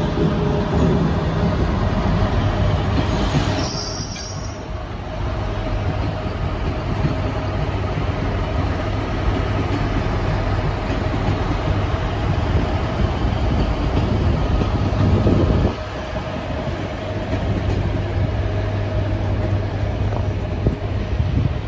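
Locomotive-hauled passenger train rolling past on the station tracks: a steady rumble of wheels on rail with a low hum, and a brief high-pitched wheel squeal about three to four seconds in. The sound drops a little about sixteen seconds in.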